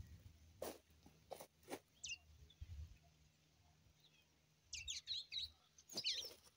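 Small birds chirping faintly: a single chirp about two seconds in, then quick bursts of rapid high chirps about five and six seconds in. A few faint clicks come in the first two seconds.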